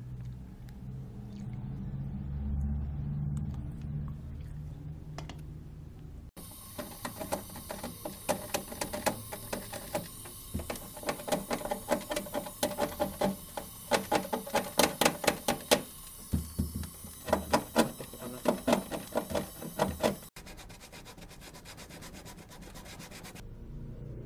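Quick back-and-forth rubbing strokes, as of hand sanding or filing, in loud runs lasting about fourteen seconds. They start and stop abruptly, about six seconds in and about twenty seconds in. A low hum comes before them.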